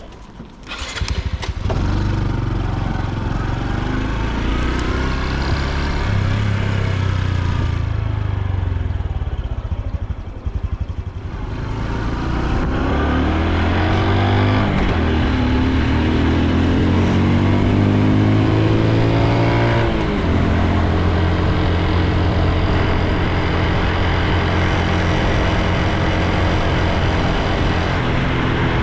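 Honda Super Cub C125's single-cylinder four-stroke engine starting about a second in and running. Its revs rise twice as it accelerates through the gears, with a shift at about twenty seconds, then it settles at a steady cruise.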